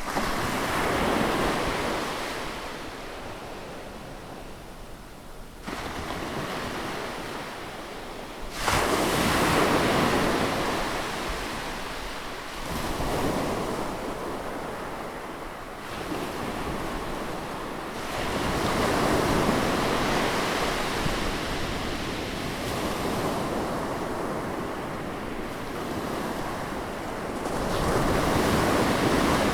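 Sea waves breaking and washing in, a rushing hiss that swells and ebbs in several surges, one every few seconds, some setting in suddenly.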